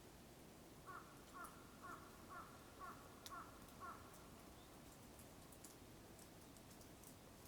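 A crow cawing faintly, in a quick run of about seven short calls, roughly two a second, which stops about halfway through.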